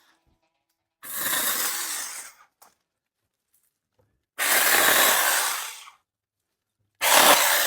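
Battery-powered 21-volt mini chainsaw running in three short bursts as it cuts into tree limbs. Each burst starts and stops abruptly, with silence between them.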